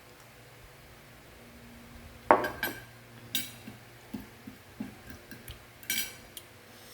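A spoon clinking and scraping against a dish while eating: quiet at first, then one sharp clink a little over two seconds in, followed by a run of lighter clinks.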